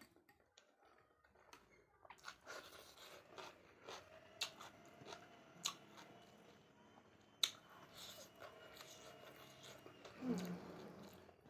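A person chewing and biting food close to the microphone, with wet mouth smacks and sharp clicks at uneven intervals. A short animal call, like a cat's meow, comes near the end.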